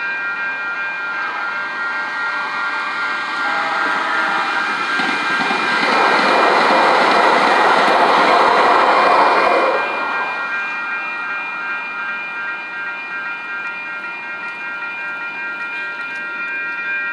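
Railroad crossing bells ringing steadily as a Metro Blue Line light-rail train passes through the crossing. The train's rush grows loud about five seconds in, peaks, and drops away sharply about ten seconds in, while the bells keep ringing.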